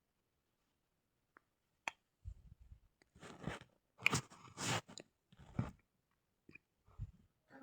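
Crisp crackling and crunching scratches from hair being picked through for lice, coming in several bursts after a couple of sharp clicks, following about two seconds of near silence.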